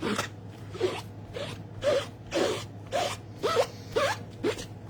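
Stamp being scrubbed clean, rubbed back and forth in quick scraping strokes, about two a second.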